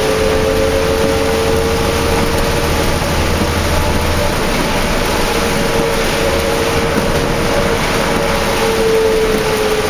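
Interior of a 2004 New Flyer D40LF bus with a Cummins ISL diesel and ZF transmission underway in heavy rain: a steady drivetrain whine that dips slightly in pitch near the end, over a constant wash of rain and road noise. A low hum underneath stops about four seconds in.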